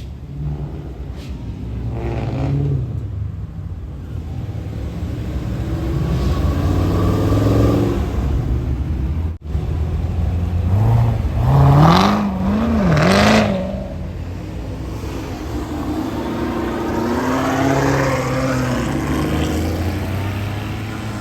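Car engines accelerating away from a car meet, with the pitch of the engines rising and falling through the gears; about halfway through one car gives a few quick revs that rise and fall sharply, and a second swell comes near the end.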